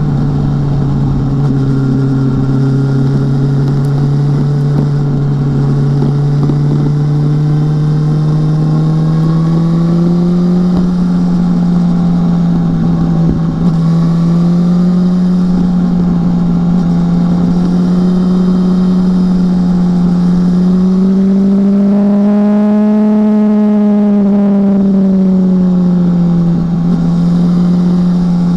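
BMW S1000R's inline-four engine running under way, its note holding steady and slowly climbing, then rising and falling back in a brief swell of revs near the end.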